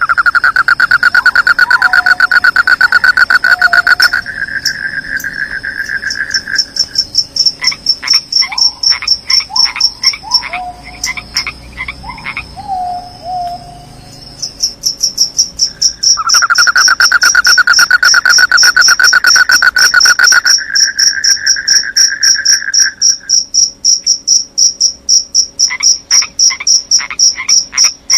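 Crickets and frogs calling together: a steady, high, rapid cricket trill throughout, with a loud, lower pulsing trill lasting several seconds that comes twice, and short falling calls between the two.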